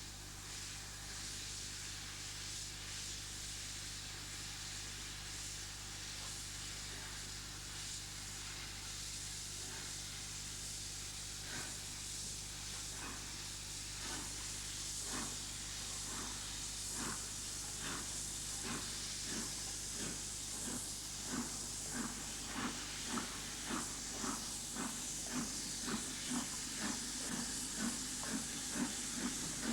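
LNER V2 class three-cylinder steam locomotive Green Arrow working a train past. A steady hiss of steam at first, then exhaust beats come in about a third of the way through and grow louder and quicker, reaching nearly two a second by the end.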